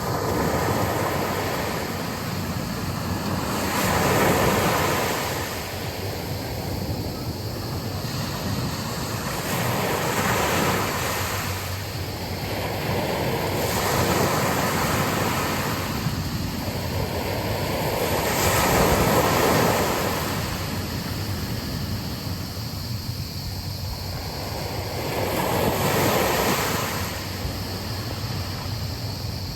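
Sea waves breaking and washing up a beach, surging about every five to six seconds between steadier surf noise. Wind runs through it.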